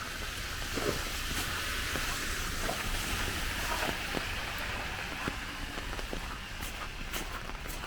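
Tyres of a passing vehicle hissing on a wet street, swelling and fading over several seconds, with footsteps in slush clicking along.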